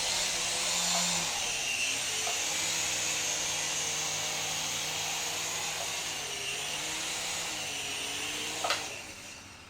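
Syma S107 coaxial micro RC helicopter in flight: the whine of its small electric motors and the whir of its rotors, rising and falling in pitch with the throttle. Near the end there is a light knock and the motors wind down.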